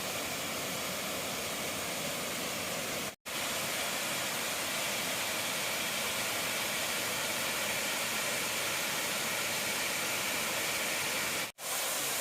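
Waterfall: water rushing and splashing in a steady, even hiss, broken twice by a brief dropout.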